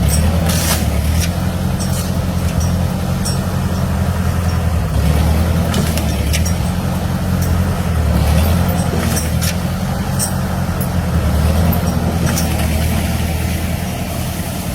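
1947 Ford 2N tractor's four-cylinder engine running steadily while pulling a stump on a chain. Scattered sharp clicks and knocks sound over it.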